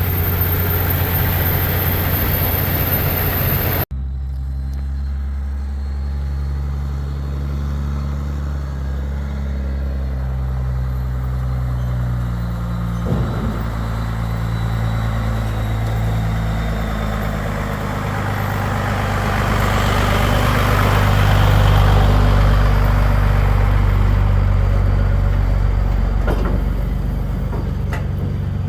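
Truck on the road: a steady engine drone with road noise, the engine note stepping up and down as the speed changes, and the noise swelling a little past the middle.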